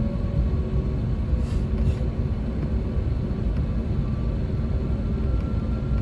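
Steady low rumble inside the cabin of an Airbus A321neo on the ground just after landing, with a faint steady whine over it.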